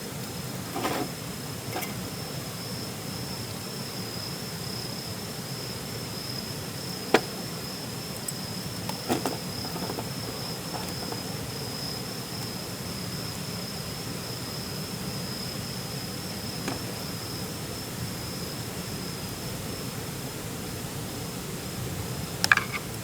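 An insect trilling steadily at one high pitch. A few sharp clicks or knocks sound over it: about a second in, about 7 and 9 seconds in, and near the end.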